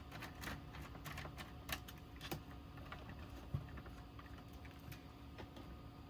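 Scattered light clicks and taps of small parts and tools being handled, busier in the first couple of seconds and sparse after, over a faint steady hum.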